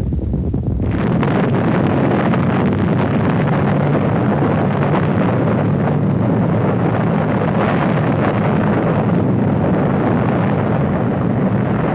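Loud, sustained rumbling roar of the Hiroshima atomic bomb blast, swelling about a second in and then holding steady.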